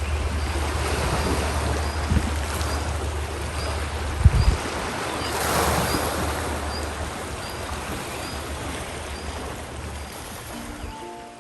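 Sea waves washing in and out, the noise swelling and fading, with wind rumbling on the microphone. Near the end, soft handpan music begins.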